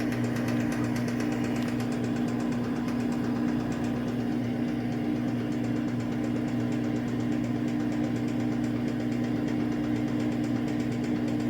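Samsung AddWash front-loading washing machine running mid-cycle: its digital inverter motor and drum give a steady, even hum with two constant tones.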